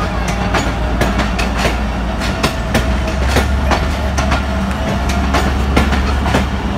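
Pakistan Railways passenger coaches of the Chenab Express rolling past as the train pulls out of the station. Their wheels click irregularly over the rail joints above a steady low rumble.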